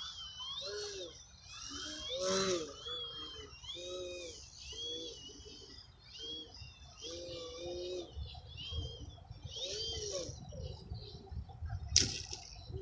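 Electric motor and propeller of a Multiplex Parkmaster 3D foam RC airplane in flight, the throttle worked up and down so the whine rises and falls about once a second, as in 3D aerobatics. A single sharp click near the end.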